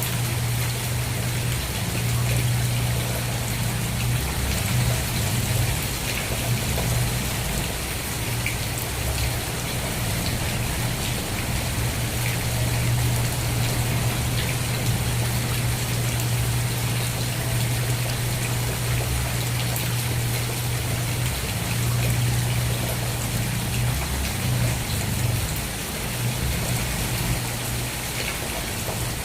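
Steady rain falling, an even patter with no let-up, over a constant low rumble that is the loudest part of the sound.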